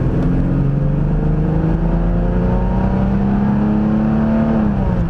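Car engine accelerating under throttle, its pitch rising steadily for about four and a half seconds and then falling away near the end. A newly fitted cold air intake makes the engine's intake sound more audible.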